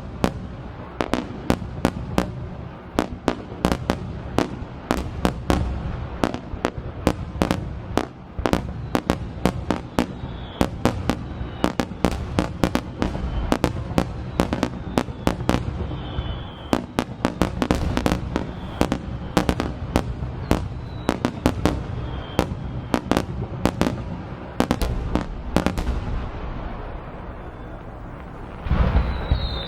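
Aerial fireworks display: a rapid barrage of sharp crackling bursts, several a second, over a low rumble of shell explosions, with a heavier deep boom and a faint whistle near the end.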